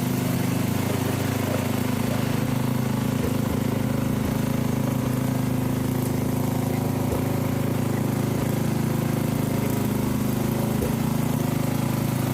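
A 1997 Mastercraft 12.5 hp lawn tractor's Briggs & Stratton engine running at a steady, even speed.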